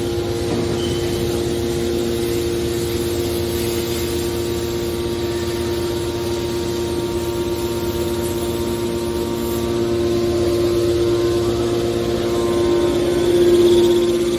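Hydraulic metal baler's power unit running with a steady whine and rumble, swelling louder near the end.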